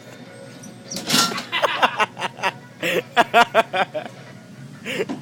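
Theme music from a coin-operated kiddie ride, a tune in short runs of quick notes, with a brief rushing noise about a second in.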